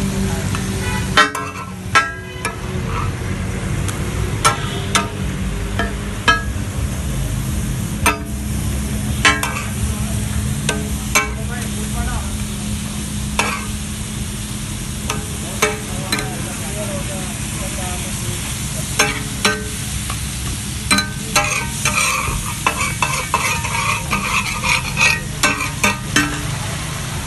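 Chicken frying and sizzling on a flat iron tawa, with irregular sharp clanks of metal spatulas striking and stirring on the griddle over a steady low hum.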